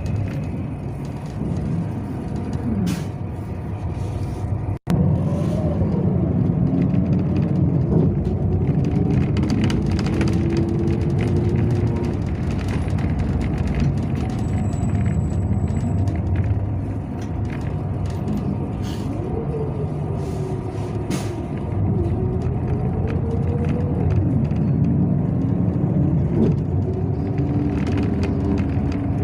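Inside a Yutong ZK6118HGA city bus under way: the engine rises and falls in pitch as the bus accelerates and changes speed, over steady road noise. The sound cuts out for an instant about five seconds in.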